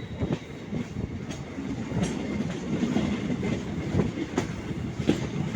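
Train running on the rails: a steady low rumble with a few sharp clicks of the wheels over the track.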